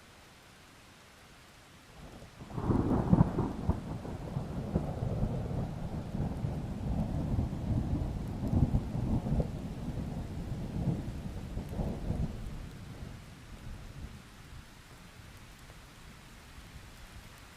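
A thunderclap over steady light rain: a sudden loud crack about two and a half seconds in, then a low rolling rumble that swells several times and fades away over about ten seconds, leaving the rain hiss.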